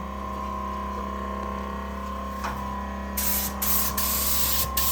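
Paint spray gun hissing as it lays a wet coat of paint, starting about three seconds in and stopping briefly twice between passes, over a steady hum.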